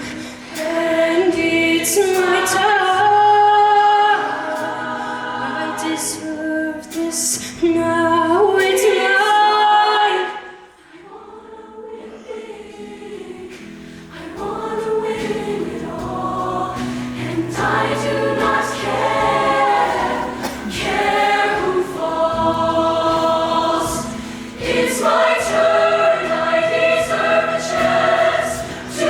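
Show choir singing in harmony, with a sudden drop to a quiet passage about ten seconds in, then building back to full volume.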